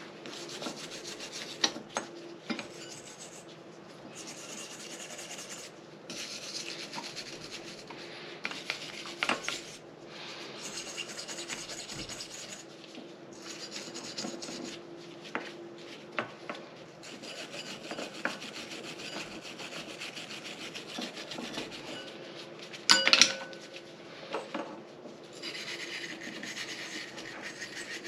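Repeated hand scrubbing or rasping strokes, each lasting a second or two with short pauses between them, with a few light knocks and one sharp clank about five seconds before the end.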